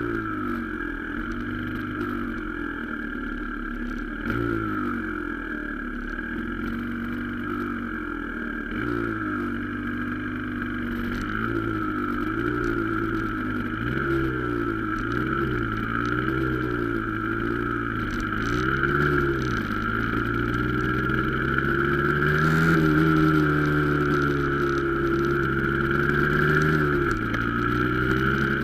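Yamaha DT125 dirt bike's single-cylinder two-stroke engine, heard from the bike itself, idling and revving up and down again and again at low speed. About two-thirds of the way in it holds a higher, steadier note for several seconds, then drops back near the end. A steady high whine runs underneath.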